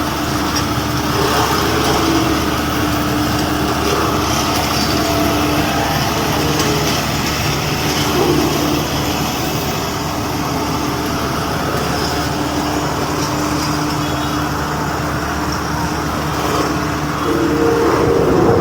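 A motor vehicle engine running steadily outdoors: a continuous rumble with a few held tones, growing briefly louder near the end.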